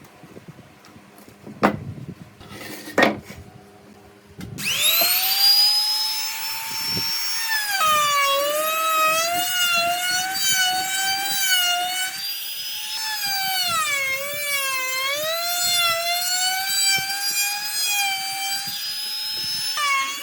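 Electric woodworking power tool spinning up with a high whine about four and a half seconds in, its pitch dipping and recovering as it bites into the wood. Two sharp clicks come before it starts.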